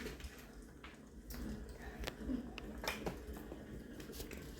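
Faint eating sounds: chewing with a scattering of small sharp clicks and ticks from handling food.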